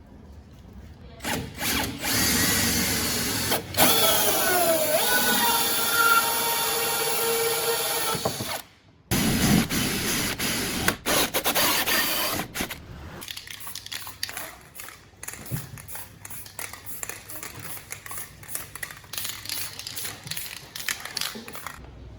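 A power tool running in loud stretches, its motor pitch dropping and then holding steady, followed by a long run of quick, rapid clicking.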